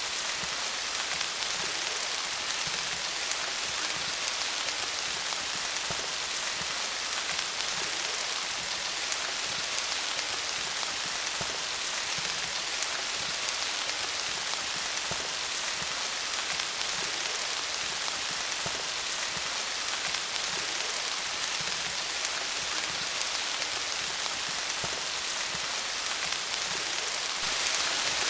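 Steady rain falling on leaves: a dense even patter of many small drops, swelling slightly near the end.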